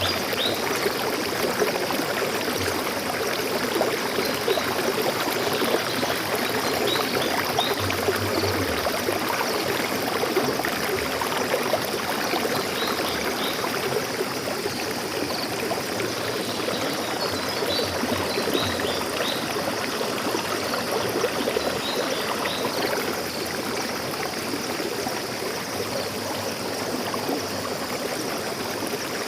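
Stream water flowing steadily over rocks, a constant rushing and trickling, with a few faint high bird chirps at the start and again past the middle.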